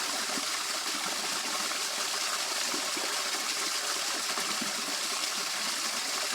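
Water running steadily over a small waterfall in a field stream, an even rushing hiss.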